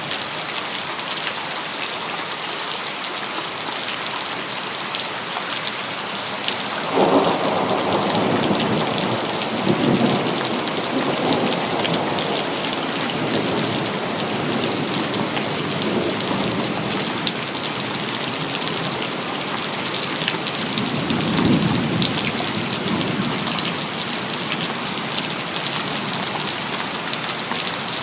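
Steady rain falling, with thunder: a sudden clap about seven seconds in that rumbles on for several seconds, and a second, shorter roll of thunder about two-thirds of the way through.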